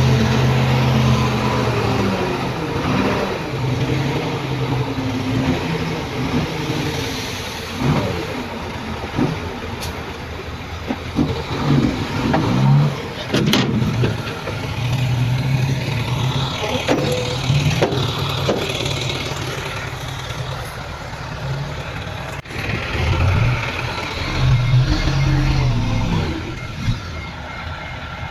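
Heavy diesel engines of earthmoving machinery, a bulldozer and dump trucks, running under load, the engine note rising and falling several times as they rev. A few sharp clanks sound over it.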